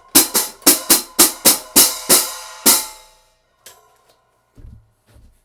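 A pair of 1950s Paiste-made Ludwig 14-inch nickel silver hi-hat cymbals played in a quick, even run of about eight strokes, each with a short bright wash, then one last hit that rings out and decays. A few faint low knocks follow near the end.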